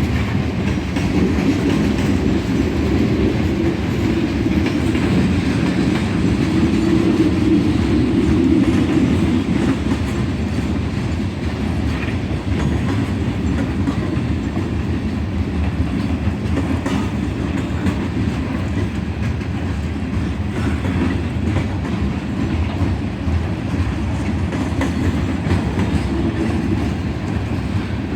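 Freight train rolling past: a steady rumble of steel wheels on rail, with occasional faint clicks over the rail joints.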